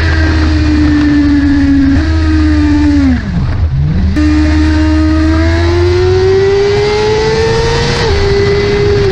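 Motorcycle engine running hard at high speed. About three seconds in, its note slides steeply down and fades, then cuts back in abruptly and climbs steadily for several seconds, stepping down slightly near the end as if shifting up a gear.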